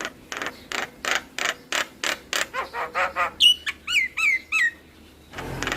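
Javan myna song: a run of harsh rasping notes, about three a second, then a string of short downslurred whistles. A loud raspy churr starts near the end.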